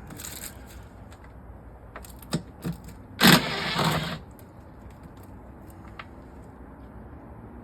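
Wrench working the small 10 mm acorn nuts that hold the Shaker hood scoop: a few sharp metal clicks about two seconds in, then a rattle lasting about a second, with scattered fainter clicks.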